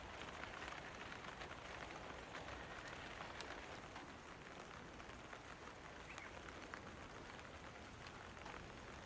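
Steady rain falling, a soft even hiss with scattered drop ticks.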